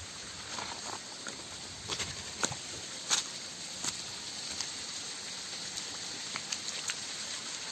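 Shallow rocky stream running steadily, with irregular sharp clicks and splashes of footsteps on wet stones in the water. The loudest steps come about two to four seconds in.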